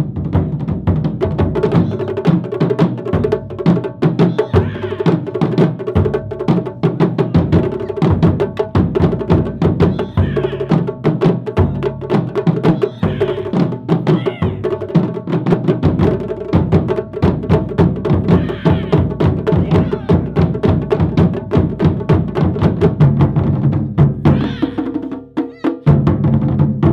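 Japanese taiko drum ensemble playing a fast, dense rhythm of drum strokes mixed with sharp wooden clicks. The playing thins briefly near the end, then the loud strokes come back.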